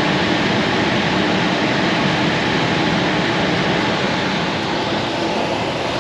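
Coleman Presidential II furnace running with its squirrel-cage blower on: a steady, loud rush of air and fan noise. The blower is running again after its seized motor was cleaned out.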